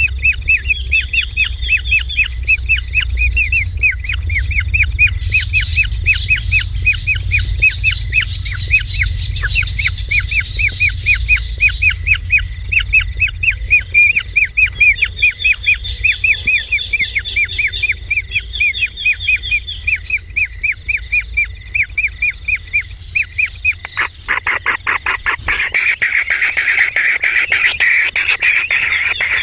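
Kingfisher calling in a long, rapid series of short repeated chirps over a steady high-pitched whine. A little after twenty seconds in, the chirps give way to a denser, buzzier rattle.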